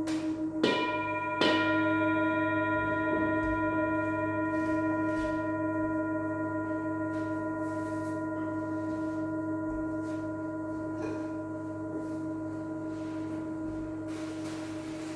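Tibetan singing bowls ringing: two strikes close together about a second in, their overtones ringing on and slowly fading over a low, steady bowl tone that pulses gently.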